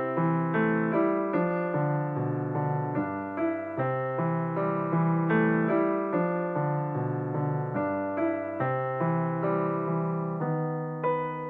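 Soft background piano music: a steady run of single notes over held low bass notes.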